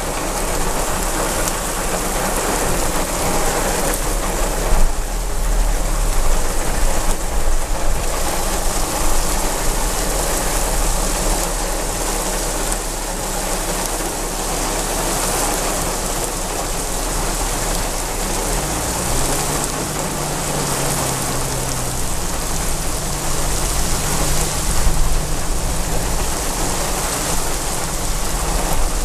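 Heavy rain falling steadily, a dense continuous hiss. A low hum comes in about two-thirds of the way through.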